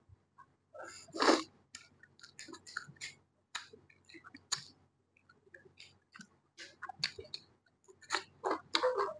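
Close-miked eating sounds: a person chewing rice and curry with irregular wet smacks and clicks of the lips and mouth, picked up by a lapel microphone.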